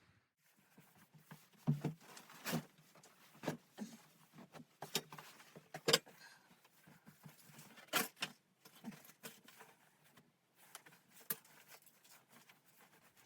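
A series of sharp knocks and clicks at irregular intervals, about a dozen in all, the loudest about two, six and eight seconds in, like gear or wood being handled.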